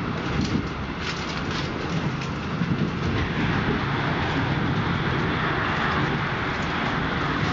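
Running noise of a passenger train heard from inside the carriage: a steady rumble of wheels on rail with an airy rushing hiss, a few faint clicks early on, and the hiss growing louder about three seconds in.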